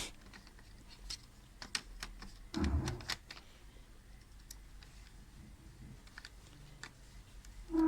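Scattered light plastic clicks and taps from handling laptop parts while the oiled cooling fan is fitted back into the laptop, with one heavier knock about two and a half seconds in.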